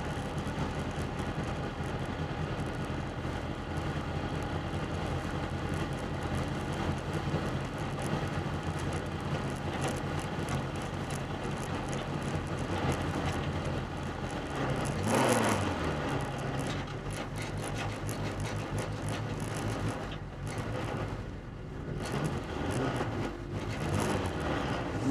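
VW Beetle's air-cooled engine running hard in a race, a steady drone. About fifteen seconds in the revs drop sharply and climb again, and they rise again near the end.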